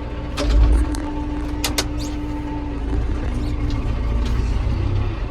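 Vehicle engine running steadily with a low rumble. A loud thump comes about half a second in, a few sharp clicks follow near two seconds, and a steady whine sounds over the first few seconds.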